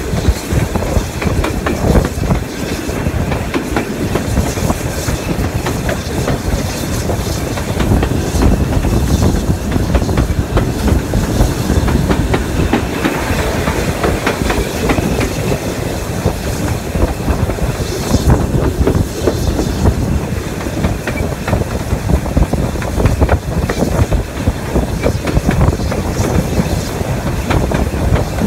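Steam-hauled heritage train running at speed, heard from an open carriage window: a steady rumble of the carriages with the wheels clicking over the rail joints.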